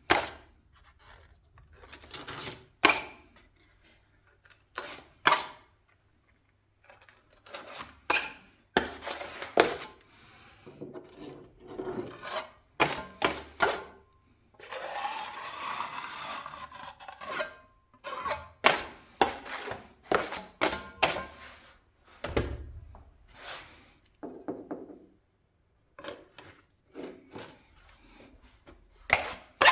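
Hand tools at work on a window reveal: an irregular series of sharp knocks and clicks, with a stretch of scraping or rasping about fifteen seconds in.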